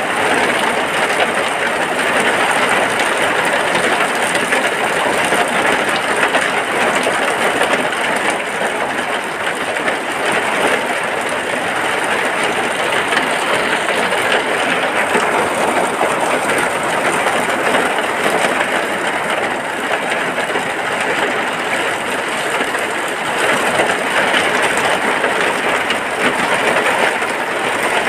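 Steady rain falling on a hut, a dense, even hiss with no breaks or separate drops standing out.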